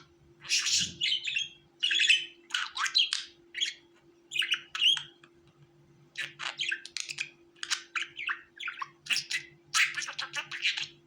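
Budgerigars chirping and chattering in quick bursts of short, high calls, with a brief lull about halfway through. A faint steady hum sits underneath.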